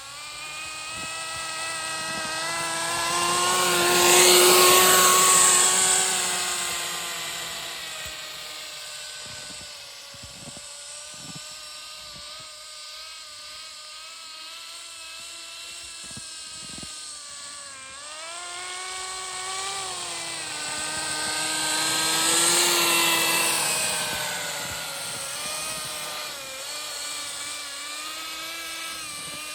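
Kyosho Blizzard GP's small nitro (glow-fuel) engine running as the RC snow vehicle churns through deep snow, its pitch rising and falling with the throttle. It swells much louder twice, about four seconds in and again a little past twenty seconds.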